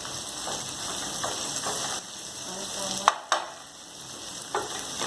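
Onion and garlic sizzling in hot oil in a frying pan, a steady hiss, while a utensil stirs and knocks against the pan several times, the loudest knock a little after three seconds in.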